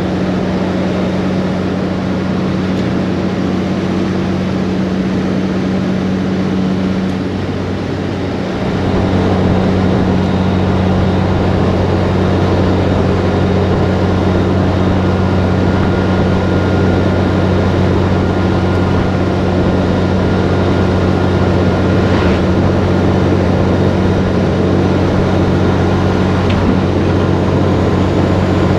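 Diesel engine of a cabover semi tractor running at steady speed on the highway, heard from inside the cab as a steady drone. About eight seconds in it eases off briefly, then pulls again slightly louder.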